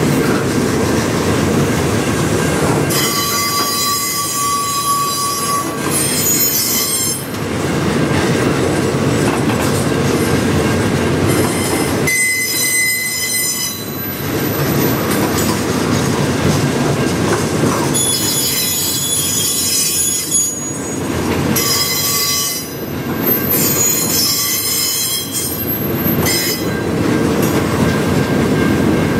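Freight cars of a mixed freight train rolling past with a steady rumble and clatter of wheels on rail, and high-pitched wheel squeal that comes and goes several times.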